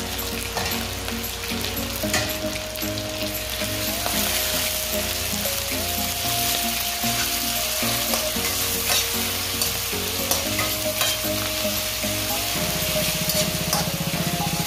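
Minced ground chicken sizzling as it is sautéed with garlic and onion in a frying pan, with a steady hiss of frying and the scrape and tap of a slotted metal spatula stirring it.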